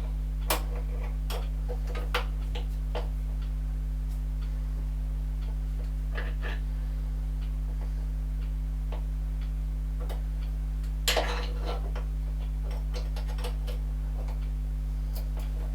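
Light metallic clicks and taps from tools working on a lathe while play is being adjusted out of it, with a small cluster of them about eleven seconds in. A steady low hum lies under them throughout.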